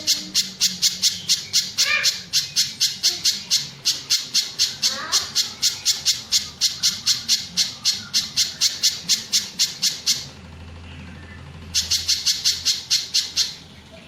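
Mountain spiderhunter (pijantung gunung) calling in a fast, even series of sharp high notes, about four a second, played as a song-tutor recording for training songbirds. The series breaks off for about a second and a half about ten seconds in, and briefly again near the end.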